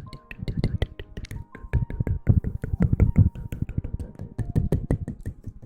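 Rapid, irregular close-miked ASMR tapping and clicking, several strokes a second, over soft background music with a few held notes.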